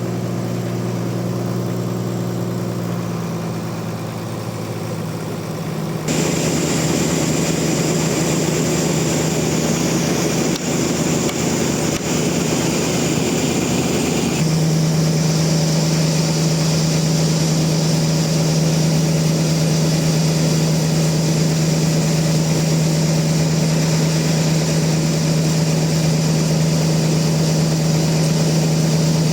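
Engine-driven sawmill machinery running with a steady hum. The sound shifts abruptly about six seconds in, growing louder with added hiss, and shifts again around fourteen seconds, settling into a strong, even drone.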